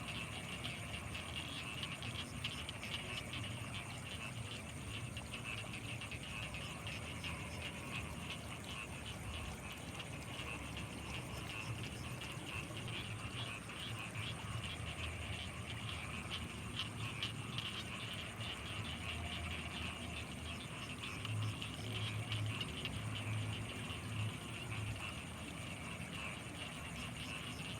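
Night chorus of frogs and insects from rice paddies: dense, fast chirping with a steady high thin trill over it. A deeper pulsing call comes up louder for a few seconds near the end.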